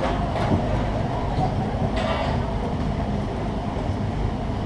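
Disneyland Railroad passenger car running along the track, heard from on board: a steady rumble of wheels on rail with a few light clicks and a short squeal about two seconds in.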